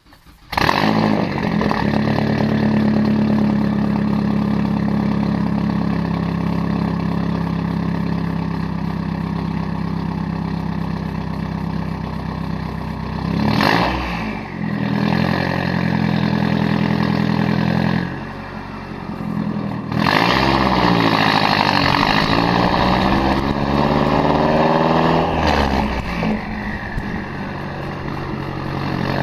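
Straight-piped exhaust of a Mazdaspeed 3's turbocharged 2.3-litre four-cylinder, with no catalytic converters, mufflers or resonators, idling loudly and revved a few times, its pitch rising and falling.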